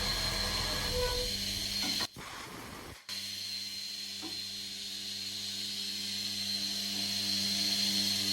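CNC milling machine cutting an aluminium billet: a steady high spindle whine over a hiss, with a low hum underneath. The sound drops out briefly twice, about two and three seconds in.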